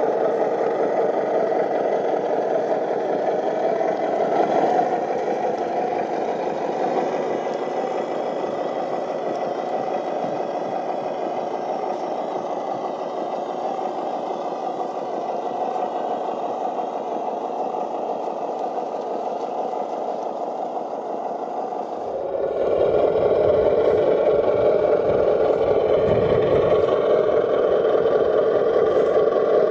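Radio-controlled scale construction machines running, a steady mechanical motor sound with some clatter. About three-quarters of the way through it changes abruptly to a louder, deeper running sound.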